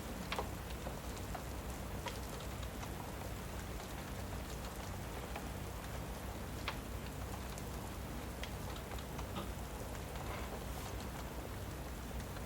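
Steady rain, with a wood fire crackling and giving an occasional sharp pop.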